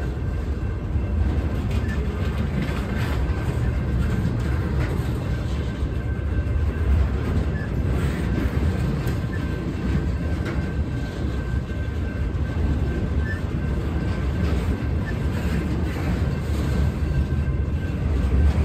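Freight train's cars rolling past at close range: a steady rumble of steel wheels on rail, with faint clicking.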